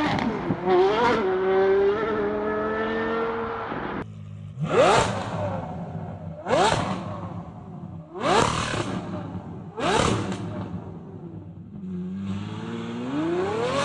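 Car engines revving: first one held at steady high revs, then four sharp throttle blips about two seconds apart, each climbing quickly in pitch and dying away. Near the end an engine revs up steadily again.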